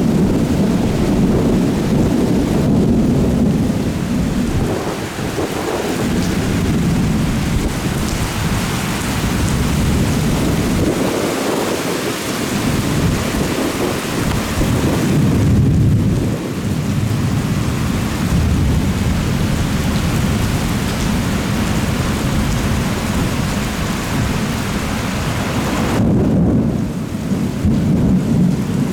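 Thunderstorm: heavy rain falling steadily, with rolling thunder rumbling low underneath and swelling and fading several times.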